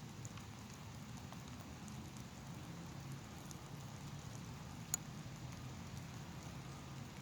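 Light rain sprinkling outdoors: a soft steady patter with scattered faint drop ticks over a low rumble, and one sharp click about five seconds in.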